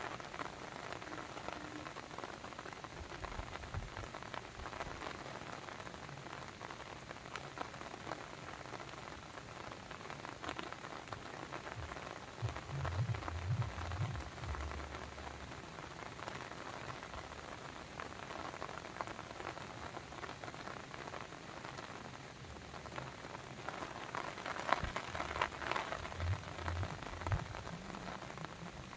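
Continuous patter of water, a dense spray of small drops, with short low rumbles about halfway through and again near the end.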